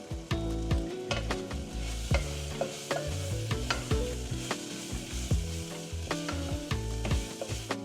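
Food sizzling in a frying pan while it is stirred, with a utensil clicking sharply against the pan many times.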